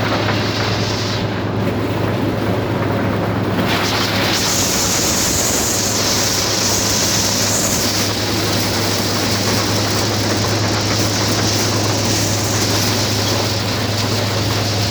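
Tractor engine running steadily while driving a maize sheller, a constant low hum under a rushing, hissing noise that grows brighter about four seconds in.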